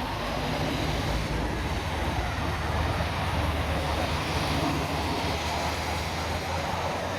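Heavy lorry's diesel engine running with a steady low drone over road traffic noise.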